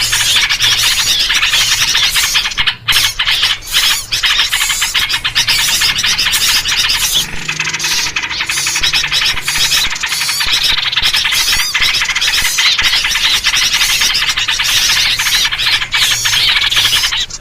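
Dense, noisy chorus of small songbirds chirping and squeaking without pause, many calls overlapping: a bird-lure recording of agitated calls in the trucuk style, used to draw in wild birds.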